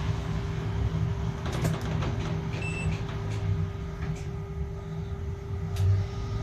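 Steady low rumble of a moving road vehicle heard from inside, with a steady hum, a few light clicks and rattles, and a short electronic beep about two and a half seconds in.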